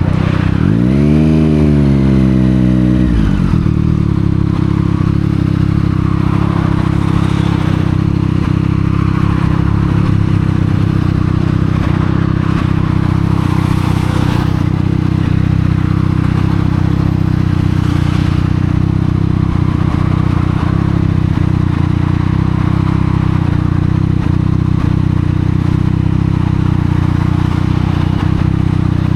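Triumph Street Triple 765 R's inline three-cylinder engine through a Yoshimura exhaust: one quick rev about a second in that falls back within a couple of seconds, then a steady idle.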